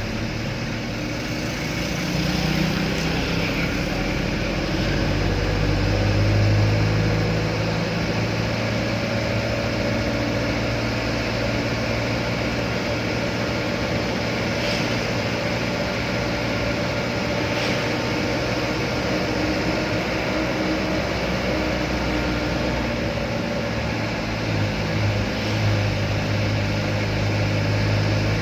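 Truck engine running steadily under way, a low drone whose pitch shifts slightly now and then.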